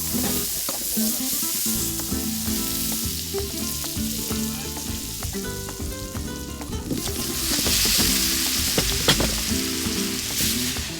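Meat sizzling on an asado grill, the hiss swelling about seven seconds in, with a sharp pop near nine seconds in. Music plays underneath.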